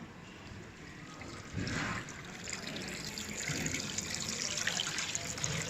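Water splashing and trickling down the waterfall of an aquarium flow tank, the water kept moving by flow pumps. It gets louder about a second and a half in and then runs steadily.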